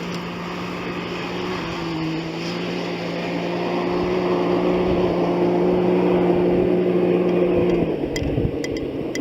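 Can-Am X3 side-by-side's turbocharged three-cylinder engine running at a steady pitch, growing louder as it comes on; the engine note cuts off abruptly near the end.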